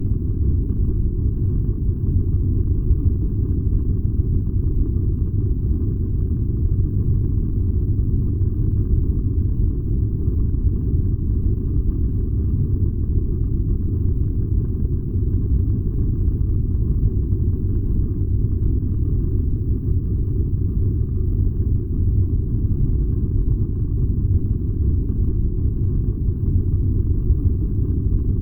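Furnace running with a steady, deep, even rumble.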